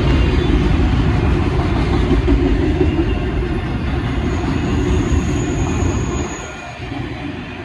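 Freight train rolling past at close range, a steady rumble of wheels on rail, with a faint high wheel squeal in the middle; the rumble eases off near the end.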